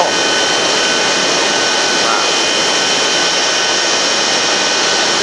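Jet aircraft turbine running steadily: a loud, even rush of noise with several constant high-pitched whining tones over it.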